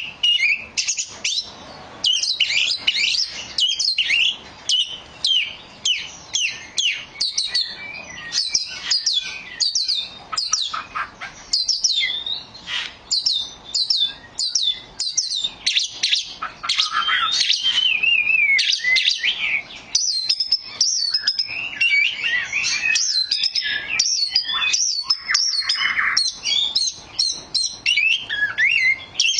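Oriental magpie-robin singing a long, varied song of rapid chirps and whistles, with sweeping whistled phrases mixed in and only brief pauses.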